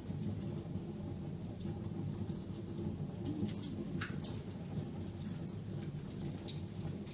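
Wood fire crackling: irregular sharp pops and snaps over a steady low rumble of the flames, with one louder pop about four seconds in.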